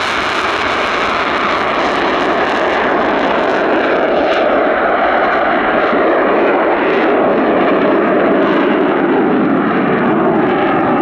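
Eurofighter Typhoon jet engines running loud and steady, growing a little louder about four seconds in.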